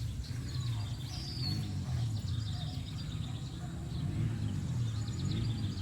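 Birds chirping faintly, with a brief whistled note about a second in, over a steady low rumble of outdoor background noise.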